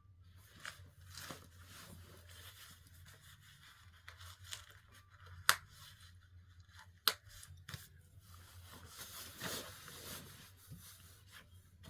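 Handling noises: clothes rustling and scraping, with two sharp clicks about five and a half and seven seconds in, over a faint steady hum.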